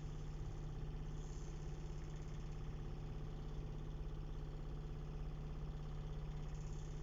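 Steady low hum of a vehicle engine idling in slow road traffic.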